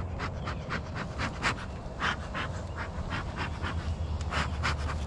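Bee smoker's bellows being pumped, a quick series of short breathy puffs, about three or four a second, over a steady low hum.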